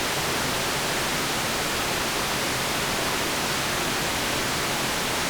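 Steady white noise: an even, unbroken hiss that sits strongest in the high frequencies.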